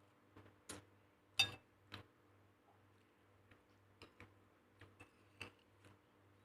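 Faint, irregular light clicks and knocks of kitchen utensils being handled while cooking, one sharper knock about one and a half seconds in, over a steady low hum.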